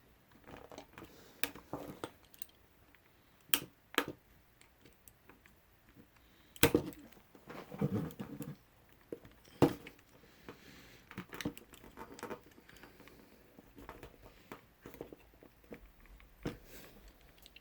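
Scattered sharp clicks and knocks of plastic parts being handled as a drone's motor arm is pressed into its pressure-fit mount, with brief soft rustling in between.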